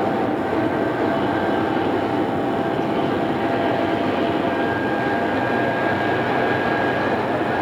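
Odakyu 2600 series electric train running at speed, heard from inside the car on a cassette tape recording: a steady rolling rumble of wheels on rail with a faint steady whine from the drive.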